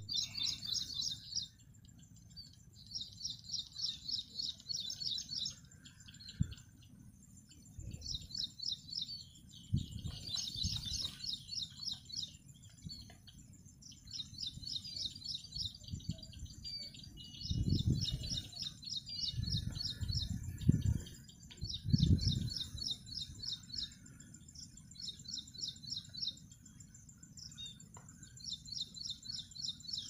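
Small birds chirping in short rapid trills that repeat every couple of seconds over a steady faint high whine. Midway, a few low muffled thumps break in.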